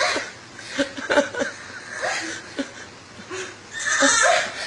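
A woman's strained, breathy vocal noises as she pushes through an exercise, in a string of short bursts with a longer one near the end, mixed with laughter.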